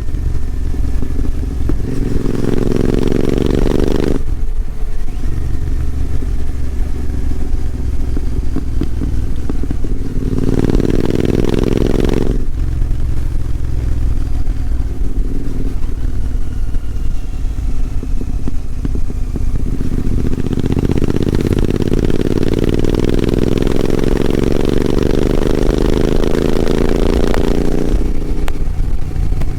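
Royal Enfield Continental GT 650's 648 cc parallel-twin engine running. Its note climbs three times under throttle: briefly twice, then in one long pull near the end. Each climb cuts off suddenly as the revs drop back.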